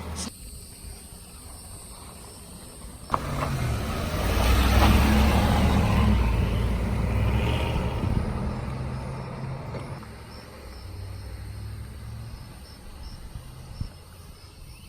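Pickup truck engine revving, with a rush of tyre and engine noise that swells about four seconds in and fades over the next several seconds; a sharp click just before it.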